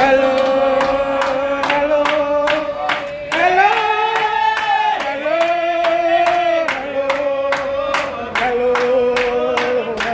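A group of voices singing a hymn in sustained, held notes over a steady clapped beat.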